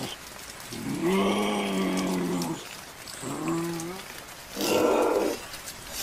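An animal calling: a long, low, pitched call about a second in, a shorter one around three seconds, then a breathy hiss near five seconds.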